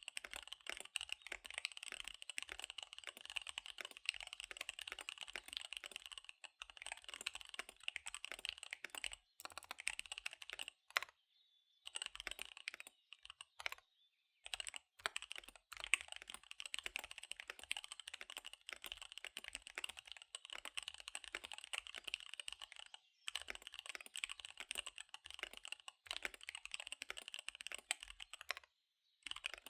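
Fast typing on a KBD75 V3 mechanical keyboard with SP-Star Dark Magic Girl tactile switches and DSA keycaps: a rapid, continuous patter of keystrokes broken by a few short pauses.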